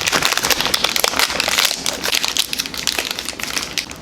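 Plastic wrapper of a protein bar being handled and crinkled, a dense run of crackling.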